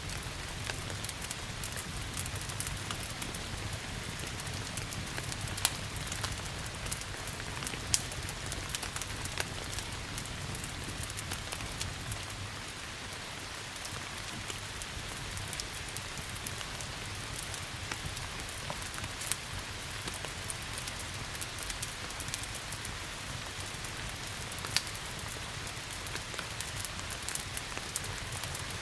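Steady rain hiss with a wood fire crackling in it, many sharp pops scattered throughout. A low rumble underneath eases off about halfway through.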